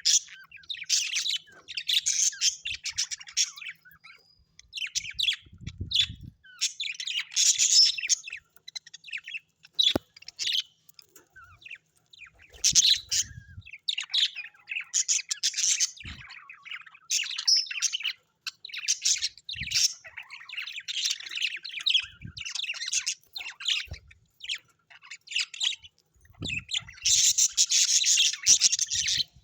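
Small birds chirping and chattering in quick, irregular bursts of high calls, busiest near the end.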